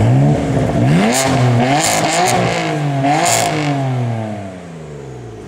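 BMW M4 Coupe's twin-turbo straight-six through an iPE aftermarket exhaust, revving hard. The pitch climbs and drops three times, with a crackly rasp at each peak, then falls away and fades in the last second or so.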